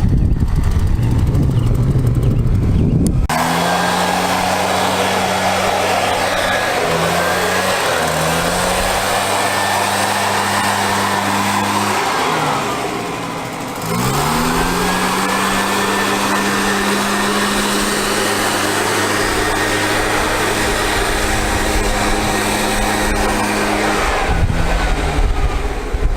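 An engine running at a steady pitch, after a low rumble in the first few seconds. About twelve seconds in it slows down, then speeds back up about two seconds later and runs steadily again.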